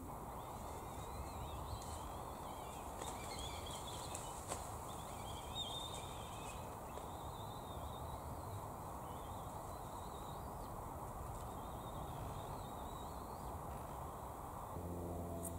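Birds twittering: wavering high calls that come and go, over a steady rushing background noise. A steady low hum comes in near the end.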